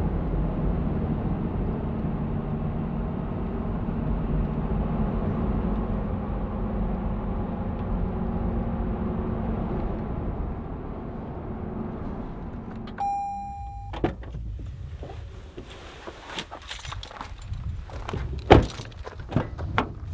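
Engine and road noise inside a vehicle's cabin while driving, easing off as it slows and stops. About 13 seconds in a short electronic chime sounds, followed by scattered door and gear clunks and knocks, the loudest a single thunk near the end.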